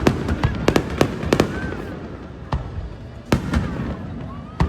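Fireworks exploding overhead: a quick string of sharp bangs and cracks in the first second and a half, then fewer, scattered bangs.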